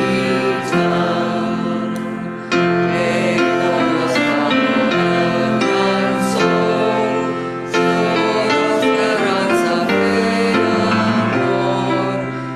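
A congregation singing a hymn with instrumental accompaniment, in sustained notes that change in steps.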